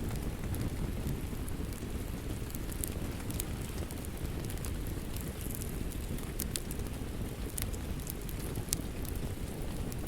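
Wood fire crackling in a fireplace: a steady low rumble of flame with scattered sharp pops and snaps, one louder pop near the end.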